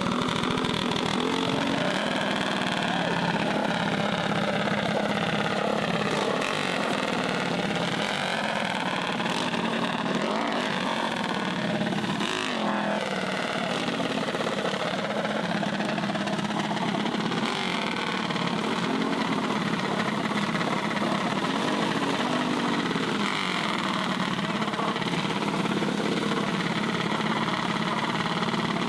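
Several small mini bike engines running and revving, their pitch wavering up and down.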